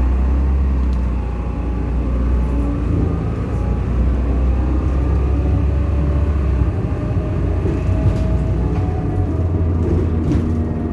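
A large vehicle's engine running with a steady low drone, fading for a few seconds near the middle and picking up again toward the end, with a faint gliding whine above it.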